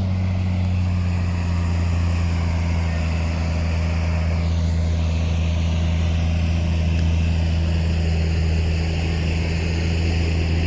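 Heavy diesel engine of earthmoving machinery running at a steady speed: a deep, even hum that holds one pitch throughout.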